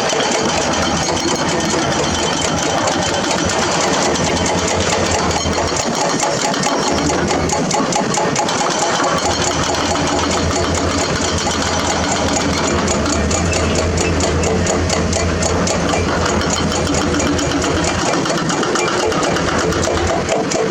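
Diesel engines of heavy construction machinery running steadily, with a rapid mechanical clatter. A low rumble grows stronger through the middle and eases near the end.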